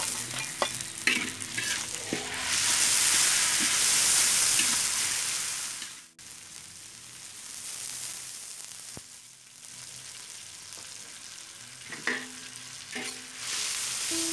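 Chopped tomato and chili sizzling loudly in hot oil in a large wok, with a metal spatula scraping and stirring. After a sudden cut about six seconds in, a quieter steady hiss as water poured into the hot pan steams, with a few spatula clicks near the end.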